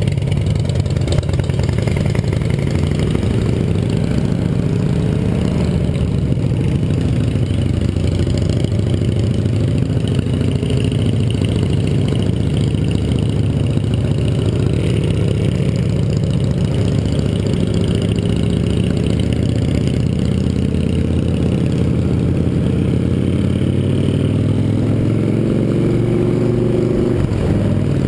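Yamaha XT 660R's single-cylinder four-stroke engine running steadily while riding. A few seconds before the end its pitch rises as it revs up, then falls away.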